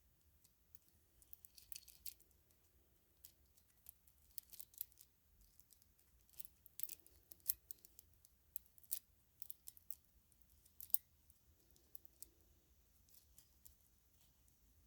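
Irregular light clicks and ticks, some in quick clusters, from a strand of white-cord string lights with clear bulbs being handled.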